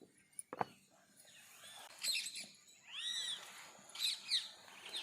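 Birds chirping outdoors: clusters of short, arched, high notes from about two seconds in, with a single sharp knock shortly after the start.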